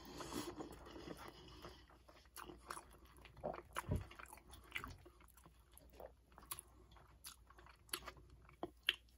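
Close-miked chewing of a forkful of fries: quiet wet mouth and chewing sounds with scattered short clicks.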